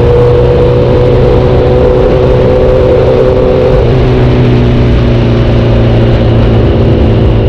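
Sport motorcycle engine and exhaust running at a steady speed under heavy wind rush. The engine note dips slightly about four seconds in.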